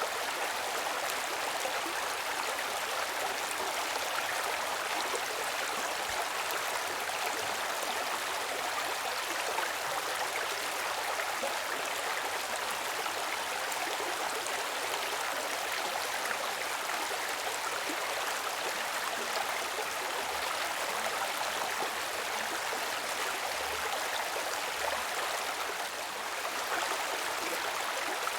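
Running water of a stream, flowing steadily with an even rushing hiss.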